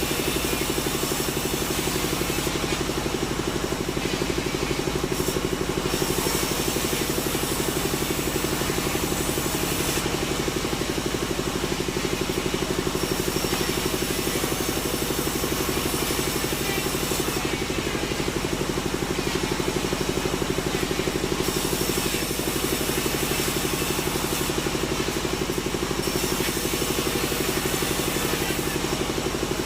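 Sawmill machinery running steadily, a loud engine-driven drone that holds the same pitch and level without a break.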